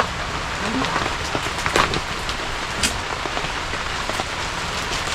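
Heavy rain falling steadily, an even hiss of rain on surfaces with a few sharper drop taps.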